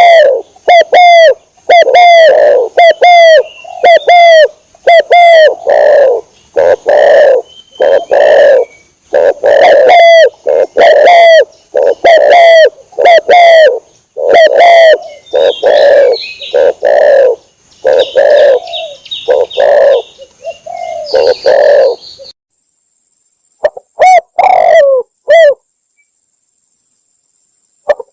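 Spotted dove (tekukur) lure call: loud, short cooing notes repeated about twice a second, each dropping in pitch, with faint higher chirps in the middle. The cooing stops, returns briefly for a few notes, then stops again near the end.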